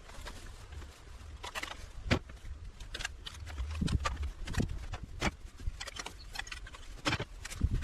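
Scattered, irregular clicks and knocks over a faint low rumble.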